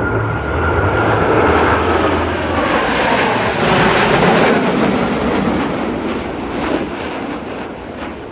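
Blue Angels F/A-18 Super Hornet jet making a pass: a loud jet engine roar swells to its peak about four seconds in and then fades, with a high whine sliding down in pitch as the jet goes by.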